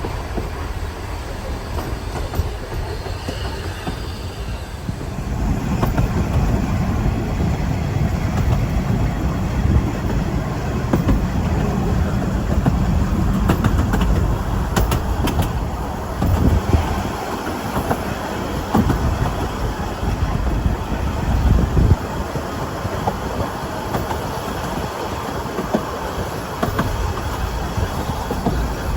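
Ffestiniog Railway narrow-gauge train running on the track, a steady rumble of wheels on rail that grows louder about five seconds in.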